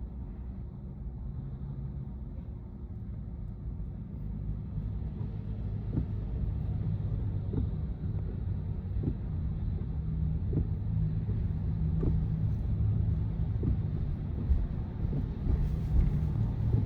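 Road and tyre rumble heard inside the cabin of a moving Tesla Model Y electric car, growing louder about a quarter of the way in. From about a third of the way in, the automatic windshield wipers sweep about once every second and a half in the rain.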